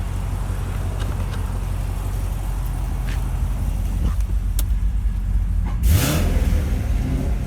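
2014 Corvette Stingray Z51's 6.2-litre LT1 V8 idling steadily, with a brief throttle blip about six seconds in that rises in pitch and falls back to idle.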